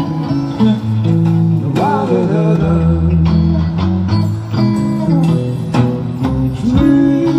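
Live band music with guitar to the fore, playing between the sung lines of the song.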